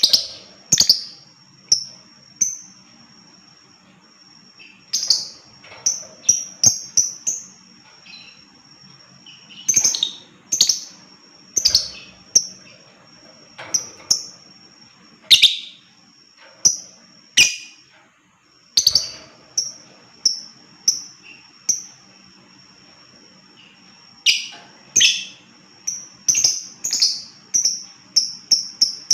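Lovebird calling: sharp, high chirps in irregular clusters with pauses between, some in quick runs of several calls a second.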